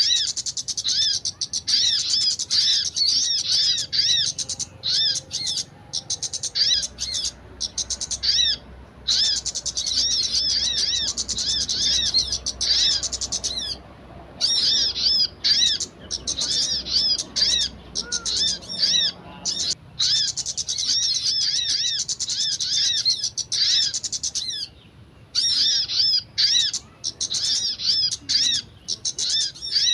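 Small songbird chirping in rapid, steady strings of high arched notes, with brief breaks every few seconds.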